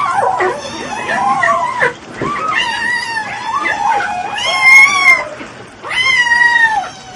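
An animal calling in a run of about five long, wavering, pitched cries that slide up and down in pitch.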